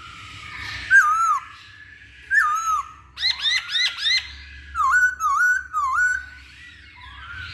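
Black-throated laughingthrush singing loud whistled phrases. There is a single bending note about a second in and another near 2.5 s, then a quick run of four rising notes, then three dipping notes.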